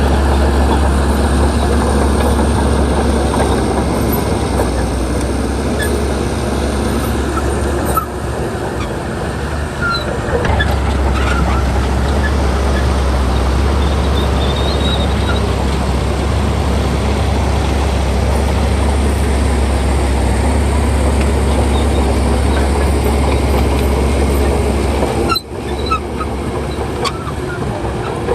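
Heavy diesel engine of earthmoving machinery running steadily with a deep low rumble, dipping briefly twice, about a third of the way in and near the end.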